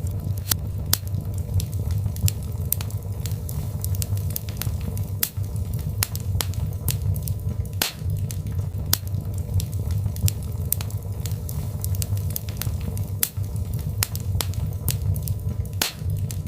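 Birchwood fire burning, with irregular sharp crackles and pops over a steady low rumble of the flames.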